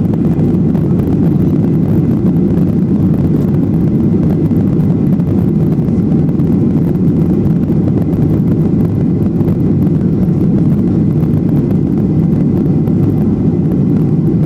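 Boeing 737-800's CFM56 turbofan engines at takeoff thrust, heard inside the passenger cabin as a loud, steady rumble with the rush of the airliner's takeoff run and climb.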